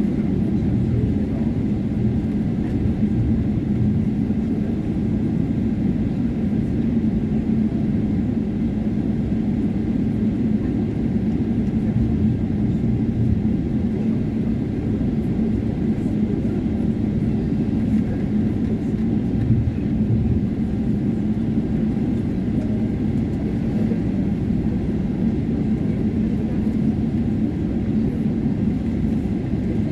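Boeing 777-300 taxiing: the steady low rumble of its jet engines at taxi power, with a constant low hum running through it.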